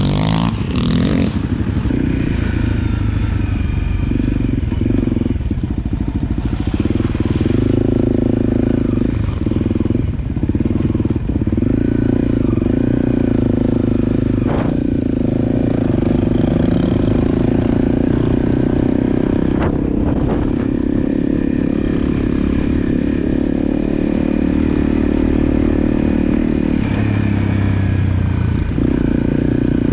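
Vehicle engine running at a steady, near-constant speed on the move, with a few brief knocks and clatters along the way.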